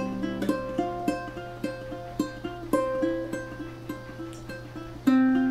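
Ukulele played alone, single plucked notes about two a second, each ringing and fading, with a louder chord struck near the end.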